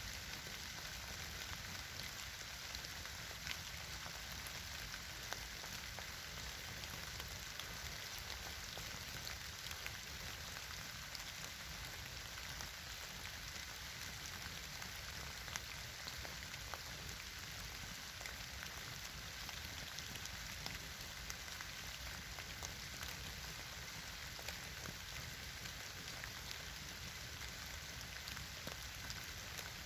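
Campfire burning: a steady hiss with frequent small, irregular crackles and pops.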